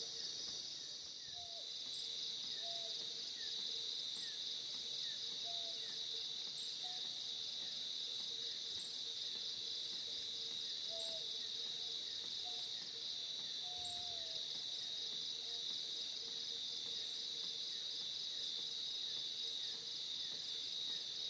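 Forest insect chorus: crickets trilling in a steady, high, pulsing drone, with faint repeating chirps and a few short low calls mixed in.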